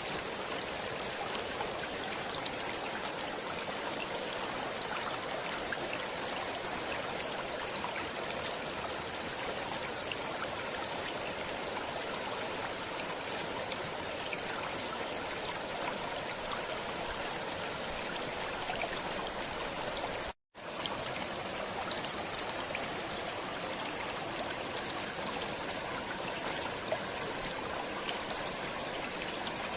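Stream water flowing steadily, a light running babble with faint scattered droplet ticks. About two-thirds of the way through it cuts out for a split second, then resumes.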